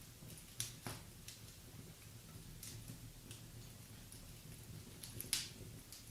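Wood fire crackling in a fireplace: scattered sharp pops and snaps over a low steady rumble, two louder pops near the start and the loudest snap about five seconds in.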